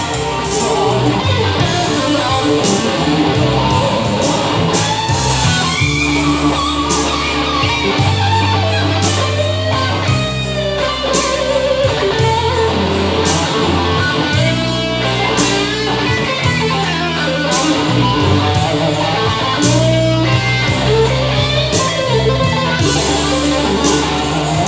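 Instrumental break of a live rock song: electric guitar playing over held bass notes and a steady beat, with no vocals.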